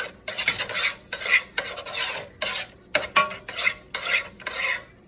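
A utensil stirring and scraping a thick sauce of canned cream soups, onions and green peppers around a skillet: repeated scraping strokes, about two or three a second.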